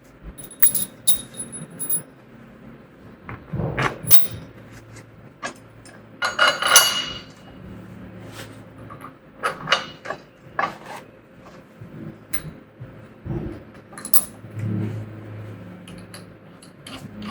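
Metal clinking, knocking and rattling as hardware and tools are handled. There are scattered sharp clicks with a ringing tone, and a longer clatter about six seconds in.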